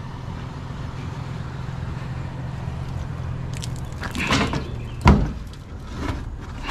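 Vehicle engine idling with a steady low hum, with a rattling clatter about four seconds in and a single heavy thump just after five seconds.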